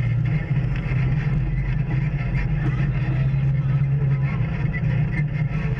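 Off-road vehicle engine running steadily under way on a trail, a constant low hum.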